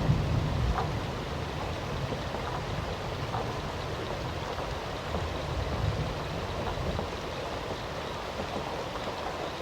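Steady rain falling, with the tail of a low thunder rumble dying away in the first second.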